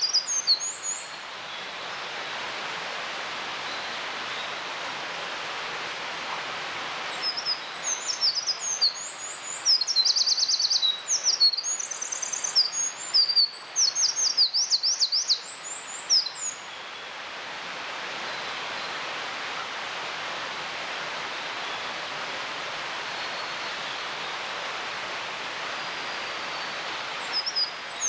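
Eurasian wren singing: one long, high song of rapid notes and fast trills, lasting about nine seconds and starting about seven seconds in, with another song beginning near the end. A steady background hiss runs underneath.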